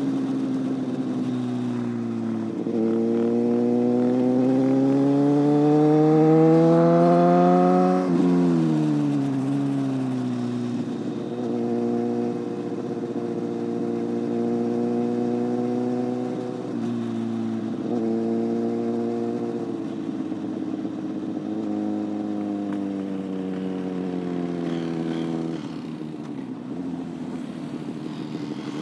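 Motorcycle engine under way: it climbs in pitch from about two seconds in until an abrupt drop at an upshift around eight seconds, then holds a steady cruise with a few brief dips as the throttle eases.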